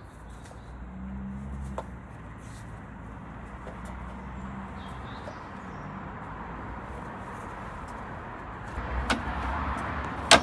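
A motor vehicle running, a low hum with road noise that grows louder near the end, and a sharp knock just before the end.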